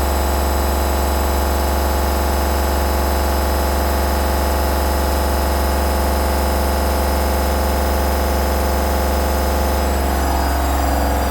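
Hoover Dynamic Next washing machine on its high-speed spin, a loud steady hum and whine from the motor and drum; about ten seconds in, the pitch begins to fall as the drum starts to slow down.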